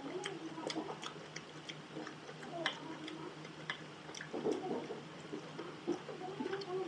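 Close-up chewing of juicy raw tomato: repeated wet mouth clicks and lip smacks, irregularly spaced.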